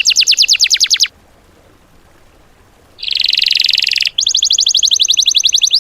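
Songbird song: a very fast trill of rapid repeated down-slurred notes that breaks off about a second in, then after a pause a short harsh buzzy rattle followed by another fast trill of rapid notes. It is shot-like 'tembakan' song used as training material for cage songbirds.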